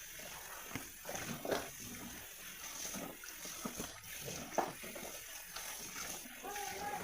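Water splashing and sloshing, with a few irregular knocks.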